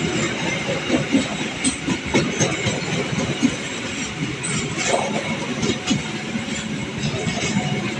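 A train moving along the tracks, with a continuous rumbling rattle of wheels and cars and irregular clicks and clanks from the wheels over the rails.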